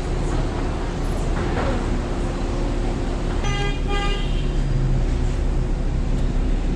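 Steady road-traffic rumble, with a vehicle horn tooting twice in quick succession about halfway through.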